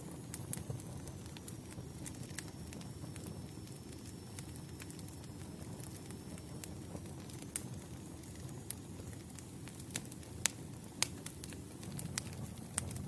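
Wood campfire burning, with irregular sharp crackles and pops over a steady low rumble of flame. A few louder pops come near the end.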